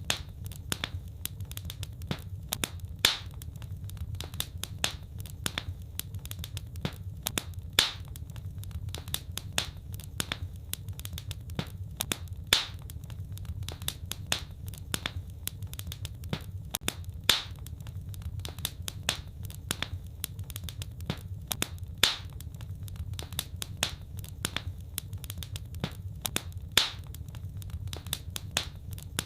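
Wood fire crackling: a dense run of small pops and snaps, with a louder pop about every five seconds, over a steady low rumble.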